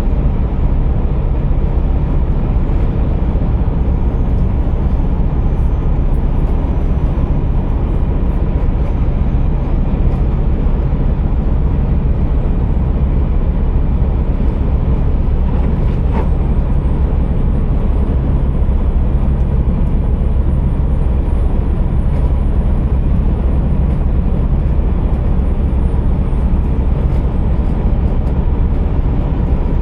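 Scania R480 truck's diesel engine running steadily, a deep, even rumble. A single click sounds about halfway through.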